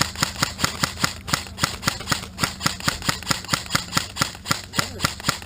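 Airsoft gun firing a rapid string of sharp semi-automatic shots, about five a second, without a break.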